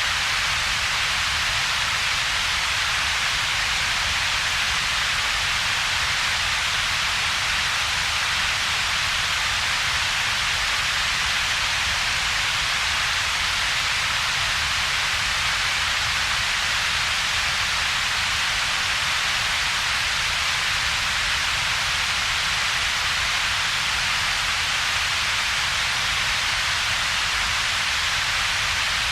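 Steady, unchanging synthetic noise with two peaks: a broad hiss strongest in the upper-middle range, and a separate low rumble, with a gap between them.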